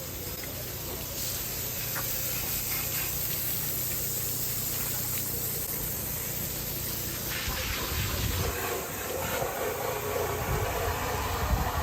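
Pressure washer spraying water in a steady hiss, getting louder and more spattery over the last few seconds.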